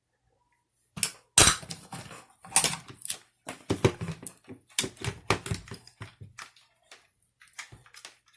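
Irregular clicks and knocks as a reassembled Toyota clock spring and the meter's test leads are handled ready for testing. The loudest knock comes about a second and a half in.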